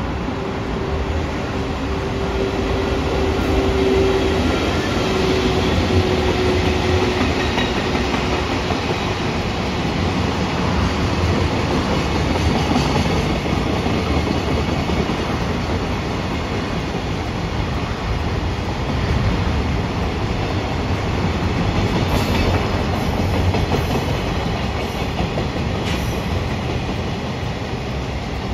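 Train running past on the track, wheels clacking over rail joints. A steady tone fades out in the first third, and a run of sharp clicks comes later on.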